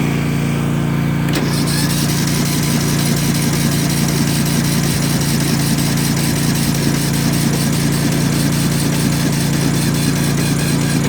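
Yard Machines riding mower's small engine being cranked over on its electric starter, a long steady run that doesn't catch; the owner suspects a weak battery or a bad starter.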